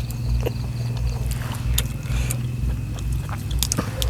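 Eating sounds: chewing, with scattered short clicks and crunches, over a steady low hum.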